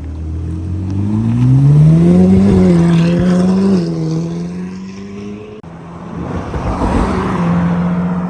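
Car engine accelerating: its note climbs over about two seconds, holds, dips briefly, then settles into a steady drone, with a short break about five and a half seconds in.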